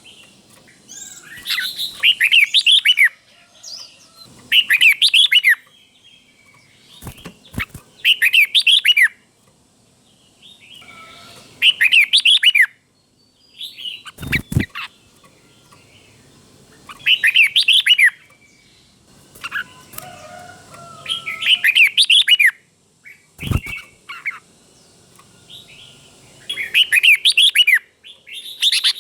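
Red-whiskered bulbul singing short, loud, repeated song phrases, about one every three to four seconds, with quiet gaps between them. A few sharp clicks fall between the phrases.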